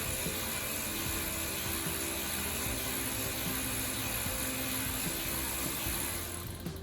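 A power tool running steadily with a hissing whir, cutting off near the end.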